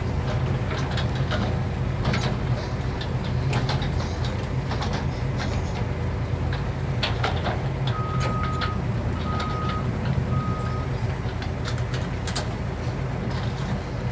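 Heavy dump truck's diesel engine idling steadily, with scattered light knocks. About eight seconds in, a reversing alarm gives three short beeps.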